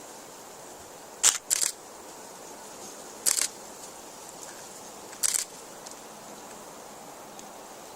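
Camera shutter clicks: two in quick succession about a second in, then single clicks about two seconds apart, over a steady background hiss.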